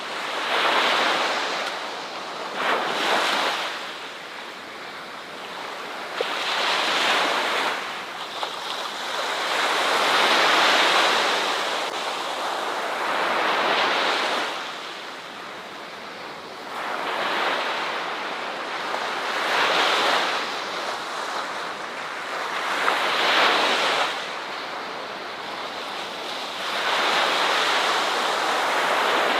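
Ocean waves breaking and washing ashore, one after another, each surge of surf swelling and fading about every three seconds.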